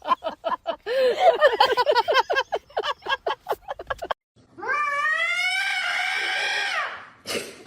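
A rapid string of short, high-pitched animal calls, about four a second, that cuts off abruptly. After a brief gap comes one long, drawn-out cat yowl that rises and then holds.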